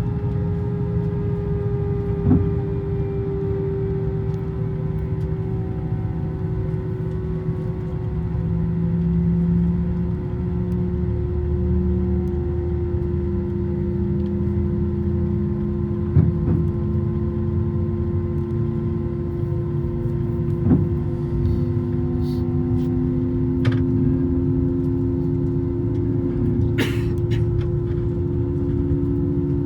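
Airbus A321-200 cabin noise heard from a passenger seat: a steady engine hum with a strong held tone and several fainter tones that slowly glide up and down. A few sharp clicks come through, most of them in the last third.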